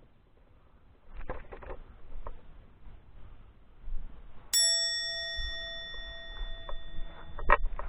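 A single bell-like metallic ding about halfway through, ringing on with several clear tones for a few seconds, among faint knocks and rustles.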